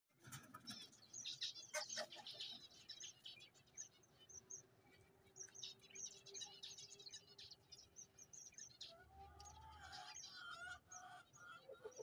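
Faint chirping of small birds: many short, high notes repeating quickly, busiest in the first few seconds, with a lower call about nine seconds in.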